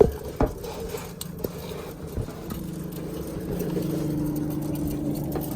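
A steady engine hum, like a car running nearby, that grows louder about halfway through. A few short knocks and clicks come in the first two seconds.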